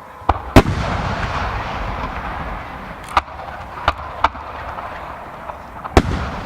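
Aerial firework shells bursting: a loud bang about half a second in, then a rolling crackle and rumble lasting a couple of seconds, then single bangs around three, four and six seconds in.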